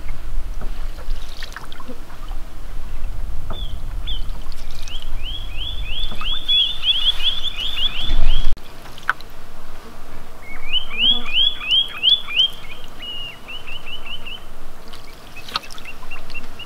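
Songbird trills, each a quick run of down-slurred notes, repeated twice, then a flatter, faster trill of short notes near the end. Under them are soft water trickles, and a low rumble that cuts off suddenly about halfway through.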